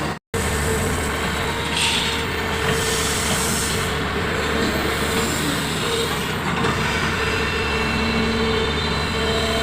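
Heavy diesel machinery, a large excavator working with dump trucks, running steadily with a held mid-pitched tone over the engine drone. The sound cuts out briefly just after the start.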